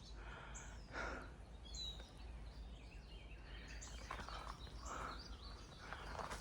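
Faint outdoor ambience with scattered short bird chirps, and a few soft rustling steps about a second in and again near the end.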